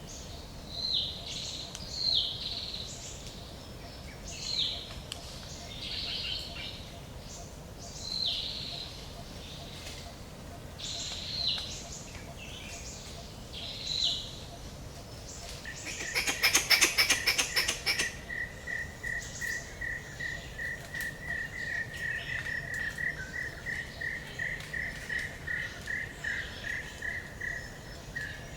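Forest ambience of wild birds calling: short downward-slurred calls repeat every second or two. Past the middle a loud rapid rattle lasts about two seconds, and then a long run of quick, even, high-pitched notes follows.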